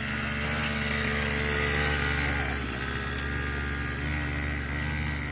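Small dirt bike engine running steadily as it is ridden, swelling a little about two seconds in and then easing off.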